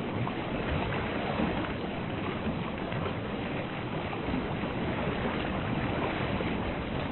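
Steady rushing noise of ocean water, even and unbroken.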